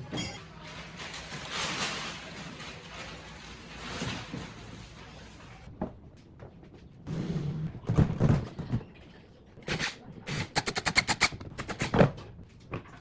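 Workshop work noises: a stretch of noisy rushing, then a series of sharp knocks and quick taps in the second half, the loudest knock near the end.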